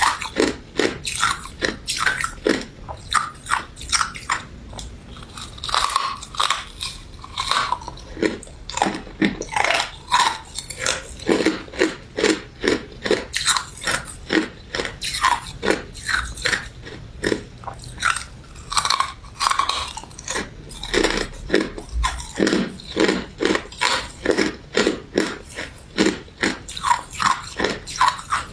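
A person chewing and biting a crunchy crystal ice dessert with citrus jelly: a steady run of crisp crunches, several a second, without pause.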